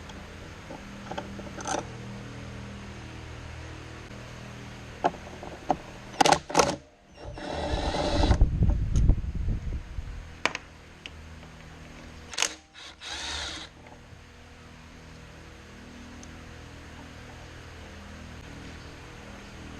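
A power tool runs in a burst of about three seconds, then briefly again a few seconds later, amid clicks and knocks of tools being handled, over a steady low hum.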